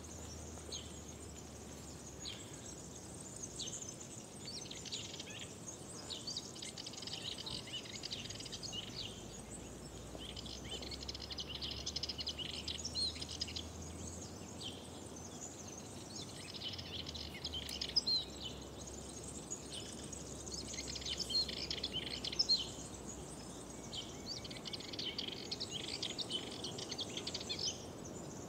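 Several small songbirds singing and chirping, with bursts of quick trills, over a faint steady background hiss.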